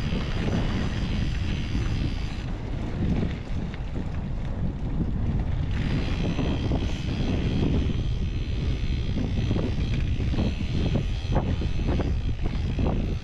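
Mountain bike riding fast downhill on a dirt trail: a steady rumble of wind on the microphone and tyres rolling, with sharp clicks and knocks from the bike rattling over rough ground, more of them in the second half.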